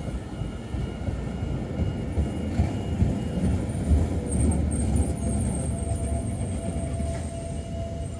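Tyne and Wear Metrocar (Class 599) train pulling into the platform and slowing: a low rumble of wheels on rails, loudest as the cars pass about three to five seconds in. A faint high squeal runs through the middle, and a steady whine comes in over the second half as the train slows.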